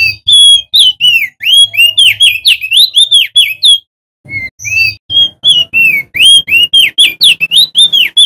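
Male opior jambul (crested white-eye) singing loudly: two long phrases of quick whistled notes, each note swooping up and down, with a short break about halfway through.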